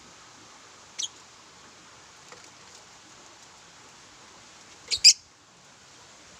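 Lovebirds giving short, sharp chirps: a single chirp about a second in and a louder quick double chirp near five seconds, over a steady faint hiss.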